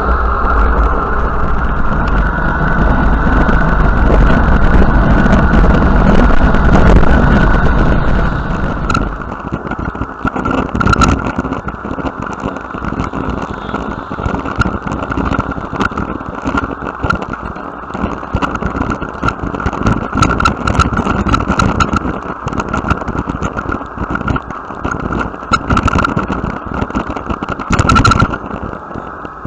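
A motor vehicle passing close to a bicycle, its engine and tyres loud for the first nine seconds or so and then fading, leaving the steady noise of the ride with frequent clicks and rattles.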